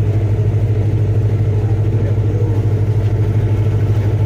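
Ferry's engine running steadily, a loud low drone with a rapid, even throb.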